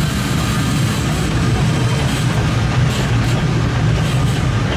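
Steady rumble and rattle of a narrow-gauge trolley train's open-sided passenger car running along the track, heard from inside the car.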